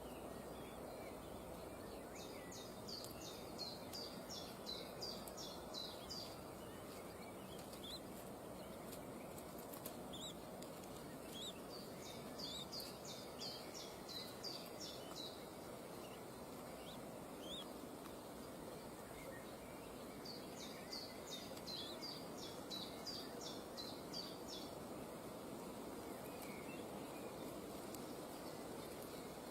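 A bird giving three runs of rapid, sharp, high-pitched calls, each run of about eight to ten notes lasting three or four seconds, with scattered single chirps between, over a steady background hiss.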